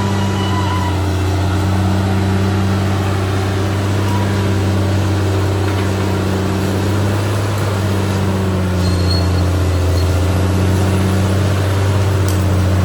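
Caterpillar D6R XL bulldozer's diesel engine running steadily at an even pitch.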